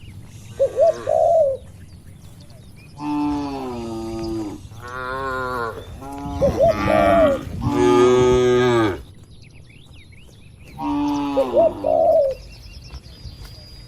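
Cattle mooing several times in a row, the pitch of each moo falling, the last and longest one ending about nine seconds in. Short, loud phrases of a bird's call come about a second in, in the middle and near the end.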